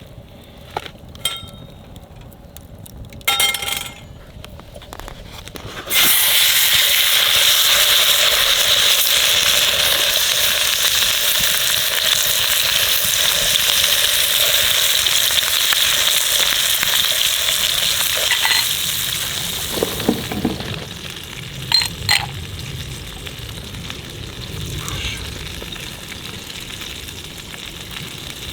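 Food frying in hot oil in a pan: a loud sizzle starts suddenly about six seconds in as the food goes in, then settles to a quieter sizzle. A few clinks of a utensil against the pan come near the end.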